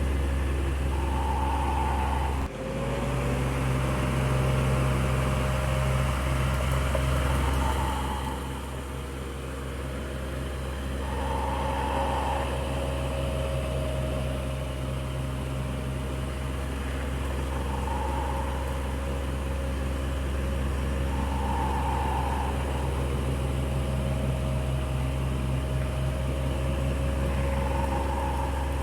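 Electric fan running steadily, with a constant low motor hum and whir. There is a brief dip about two and a half seconds in, and a faint higher note swells briefly every few seconds.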